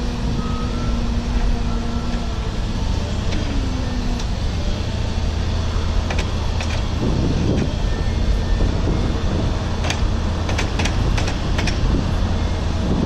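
Steady low rumble of a running motor vehicle, with a few sharp clicks or rattles about ten seconds in.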